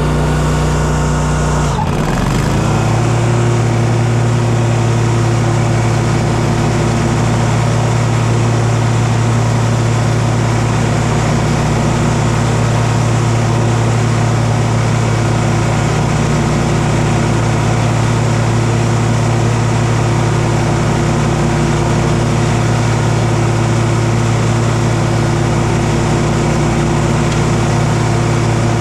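An engine running steadily. About two seconds in it is throttled up, its pitch sweeping quickly higher, and it then holds at a steady high speed.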